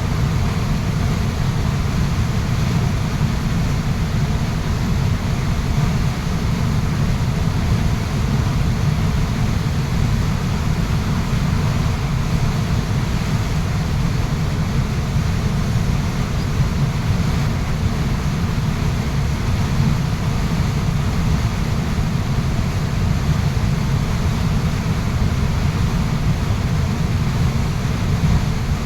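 Waterfall rushing steadily, an even noise of falling water with most of its weight in a deep low rumble.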